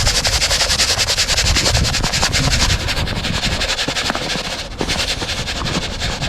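Granules of ice melter salt being poured out of their container onto snow and pavement, a dense rattling hiss that eases off about three seconds in.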